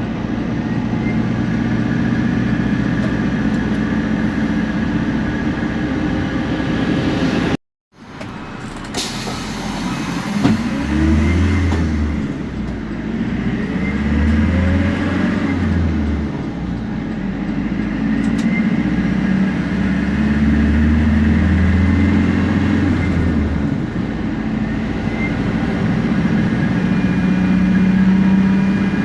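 Temsa Prestij SX bus engine pulling away and accelerating, its pitch rising several times over as it goes up through the gears, with a thin high whine from the turbo and differential over the engine note. The sound cuts out for a moment about eight seconds in and ends in a steady drone.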